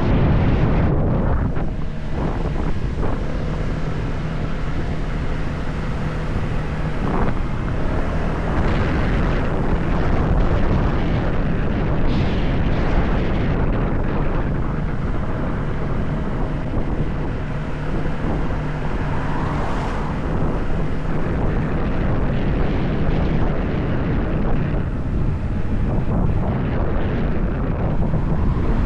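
Motorcycle on the move: steady wind rush over the microphone, with the engine's drone underneath.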